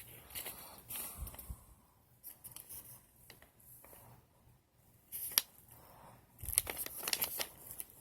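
Handling noise: soft rustling and scattered light clicks, with a sharp click about five and a half seconds in and a cluster of clicks and a soft thump shortly after.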